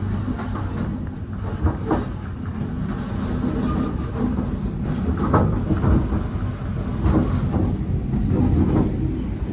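V/Line N-set passenger train hauled by an N-class diesel locomotive, running along the line and heard from on board. It makes a steady low rumble with a low hum, and a few faint clicks of the wheels over the rails.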